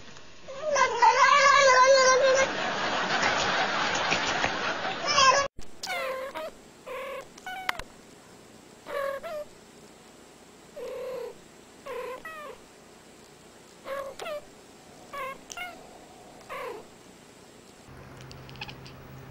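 A domestic cat yowls loudly for about five seconds. After a cut, two cats trade short chirping meows back and forth, about a dozen brief calls spread over ten seconds.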